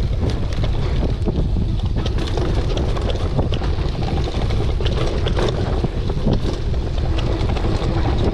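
Wind buffeting the microphone over the rattle of a mountain bike descending a rough dirt trail, with frequent clicks and knocks from the bike over bumps.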